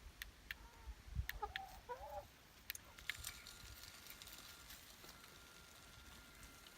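Chickens clucking, with a couple of short calls about a second in, amid scattered sharp taps.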